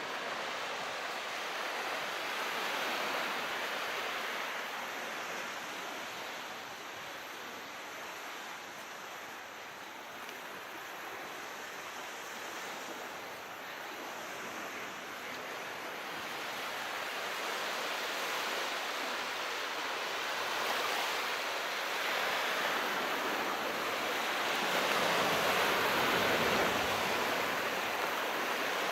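Calm sea waves washing on a shore, a steady rushing hiss that swells and eases slowly, building to its fullest near the end.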